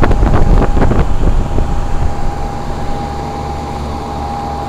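Early-1980s York heat pump outdoor unit running in cooling mode: a steady hum, mostly from the condenser fan motor, with a constant whine and little compressor noise. A cluster of clicks and knocks sounds during the first second and a half, then the hum carries on evenly.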